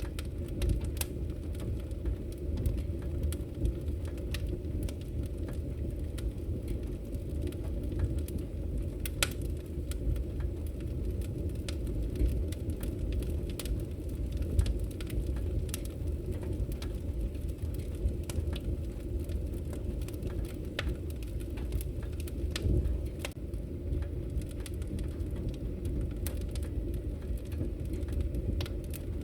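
Wood fire crackling and popping in a fireplace: a steady low rumble of burning with frequent sharp pops and snaps scattered throughout.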